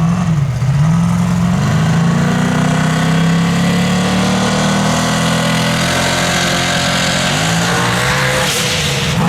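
Open-paddle dirt drag car's race engine revving on the line, its pitch climbing slowly and sagging, then a sudden loud rush of noise near the end as it launches down the dirt track.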